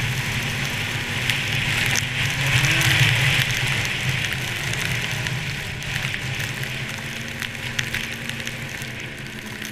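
Yamaha SRX 700 snowmobile's three-cylinder two-stroke engine running under way, with a rush of wind and blowing snow over it. Both ease off gradually as the sled slows, leaving a steadier engine tone near the end.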